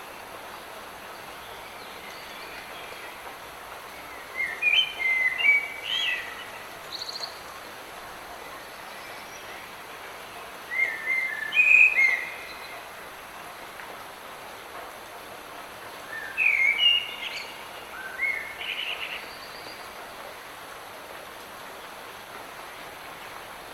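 A songbird singing three short, chirpy phrases several seconds apart over a steady hiss of light rain in a forest.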